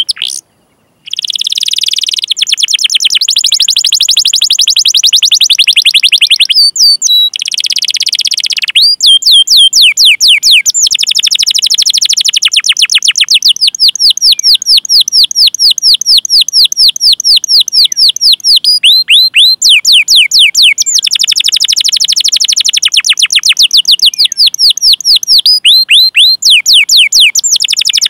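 Domestic canary singing long, fast rolls of repeated 'cuit cuit' chirps, each a quick downward sweep, with a few brief breaks between the rolls.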